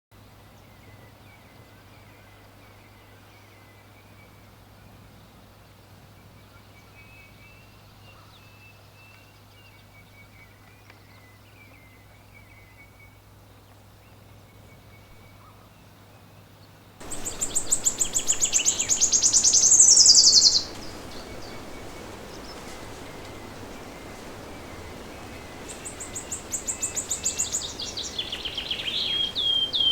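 Songbirds singing: faint, thin chirping over a steady low hum, then about halfway through a sudden change to louder, close birdsong with rapid high trills and a falling sweep, and near the end a run of quick falling chirps about four a second.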